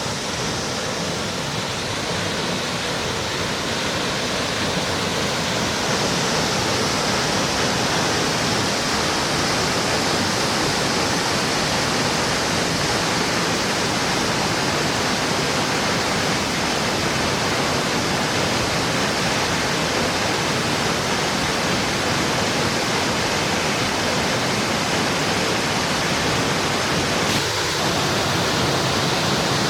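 Waterfall's rushing water, a steady dense noise without pauses that grows a little louder about five seconds in.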